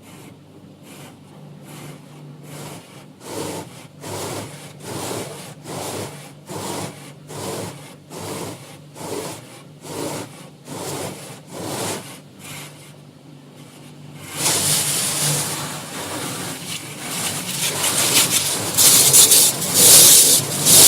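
Automatic tunnel car wash heard from inside the car: rotating brushes sweep over the body in a regular swish about one and a half times a second, growing louder. About two-thirds of the way through a loud hissing spray of water starts and keeps getting louder.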